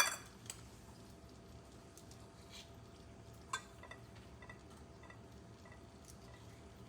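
Quiet kitchen handling sounds: a sharp knock at the very start, then a few light clicks and taps, one louder about halfway, over a steady low hum.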